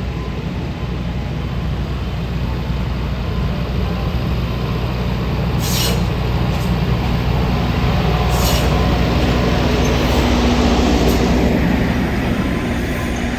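Narrow-gauge Alishan Forest Railway train running with a steady low rumble that slowly grows louder, broken by a few brief sharp high-pitched squeaks or hisses.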